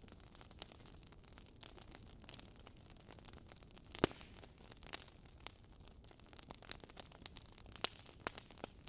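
Wood fire in a fireplace crackling: scattered sharp pops and snaps over a faint hiss, with one louder pop about four seconds in.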